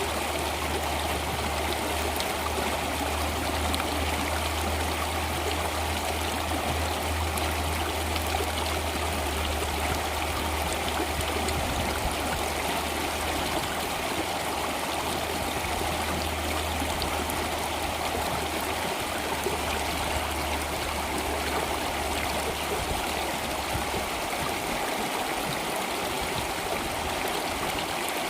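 Water flowing steadily in a stream, a continuous even flow with trickling, over a low hum that fades out near the end.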